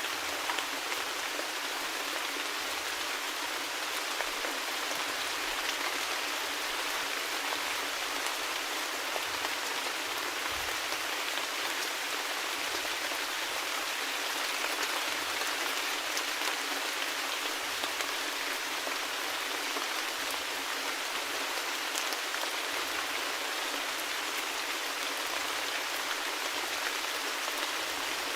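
Steady, continuous rain falling: an even hiss with faint scattered drop ticks.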